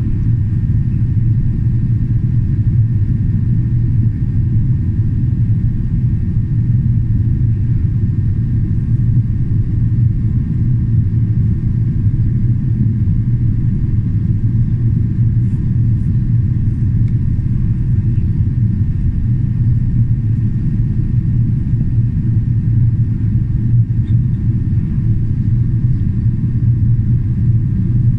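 Steady low rumble of cabin noise inside a Boeing 777-300ER in flight, from airflow and its GE90 engines, with a faint steady high whine above it.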